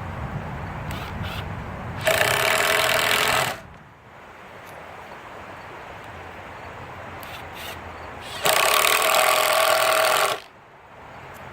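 Ryobi P234G 18-volt cordless quarter-inch impact driver hammering screws in, in two bursts: one of about a second and a half, then a pause, then one of about two seconds.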